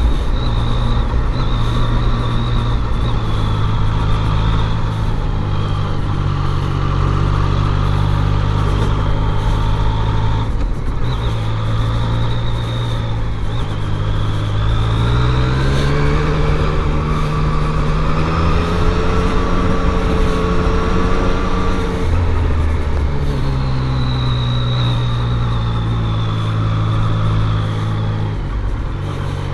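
Yamaha MT-09's inline three-cylinder engine running under way. The pitch climbs about halfway through as it accelerates, holds, then drops back suddenly about two-thirds of the way in and settles steady again.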